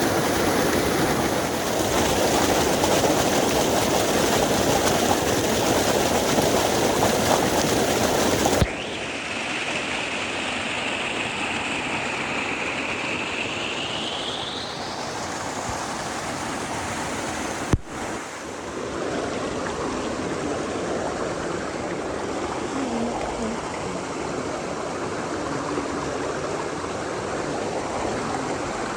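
Creek water rushing and cascading as a steady roar, heard across several clips with abrupt changes about a third of the way in and again about two-thirds in. Midway there is a faint high whistle that slowly rises in pitch.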